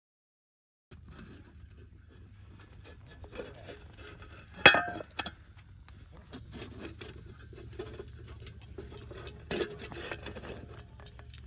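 Tableware clinking: one sharp, ringing clink a little under halfway through and a softer knock near the end, over many faint small ticks and a low steady hum.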